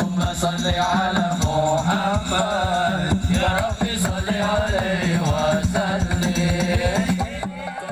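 Sholawat devotional singing with dense, rapid drum accompaniment; the music drops away near the end.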